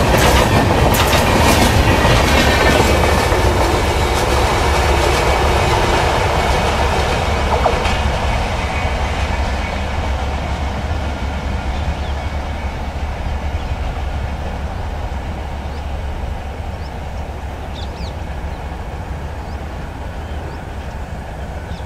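Express train of LHB coaches passing close by at speed: the wheels click over the rail joints for the first few seconds, then a steady rumble fades slowly as the last coach draws away.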